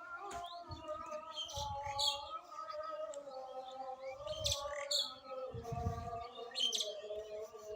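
Birds chirping in short, sharp calls over a continuous held, slowly wavering tone, with a few brief low rumbles.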